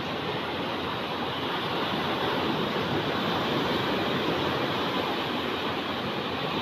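Ocean surf washing onto a beach: a steady rush that swells a little about halfway through.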